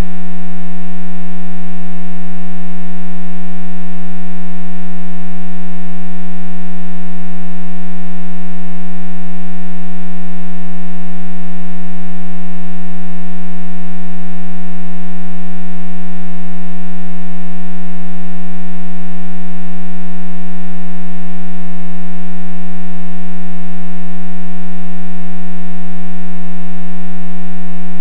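A loud, steady electrical buzz: one unchanging low tone with a stack of overtones, unbroken throughout.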